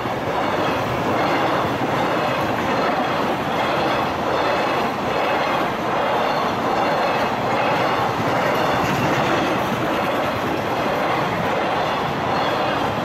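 A freight train running past at speed: a steady, loud rolling rumble of wagon wheels on the rails, rising and falling slightly as the wagons go by.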